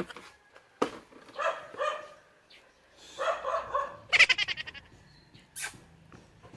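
A dog barking and yelping several times in short calls, one of them a quick stuttering run of yips.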